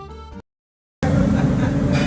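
Instrumental music cuts off abruptly, and after half a second of silence a loud, steady low rumble starts.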